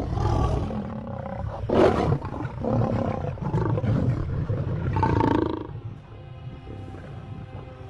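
Male lions roaring at one another in a dominance clash, a run of loud, rough outbursts over the first six seconds. The roaring then dies away, leaving only background music near the end.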